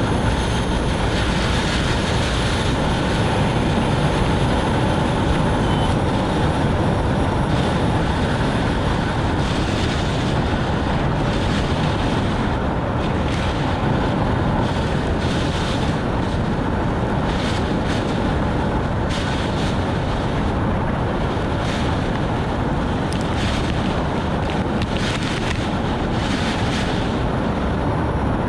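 Steady noise of a car driving on a rain-soaked road in heavy rain: a continuous hiss of tyres on the wet surface, spray and rain, with no let-up.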